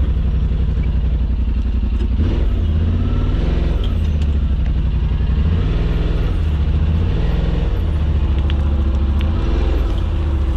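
Side-by-side UTV engine running at trail speed, its pitch stepping up and down as the throttle comes on and off. A few faint clicks and knocks sound in the second half.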